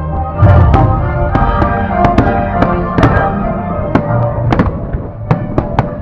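Fireworks bursting in a rapid string of sharp bangs, the loudest about half a second in, over music playing.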